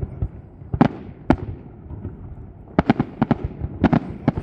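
Fireworks show: aerial shells bursting with sharp bangs, two single bangs about a second apart, then a quick run of several more bangs about three seconds in.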